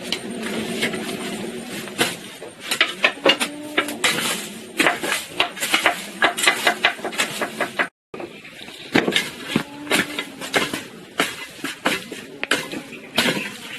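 Hard household objects such as dishes, pots and metal utensils clattering and clinking as they are handled: a string of irregular knocks, some with short ringing tones.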